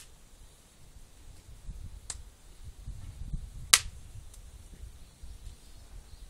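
Burning firewood popping and cracking: sharp snaps right at the start and about two seconds in, the loudest one near four seconds in, and a faint one just after it, over a low rumble.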